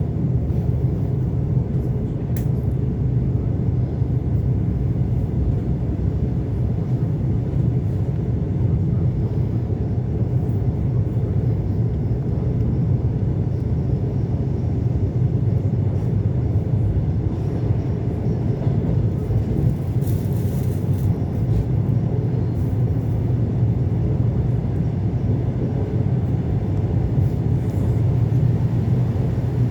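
ET2 electric multiple unit running between stations: a steady low rumble of the train under way. A brief hiss comes about twenty seconds in.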